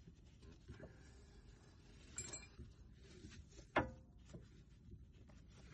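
Metal tools and parts being handled during a stabilizer bar bushing job: a ringing metallic clink about two seconds in and a sharp knock just before the four-second mark, among faint clicks.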